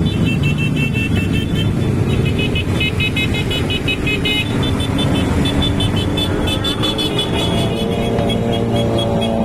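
Motorcycle and car engines running together, their pitch shifting as they rev, with music playing over them.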